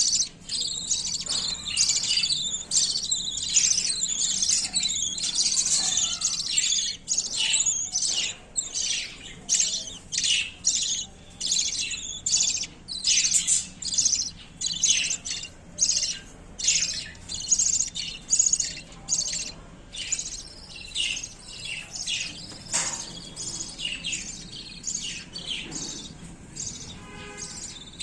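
Budgerigars chirping: a dense, continuous chatter in the first half that thins into short bursts of chirps about once a second later on.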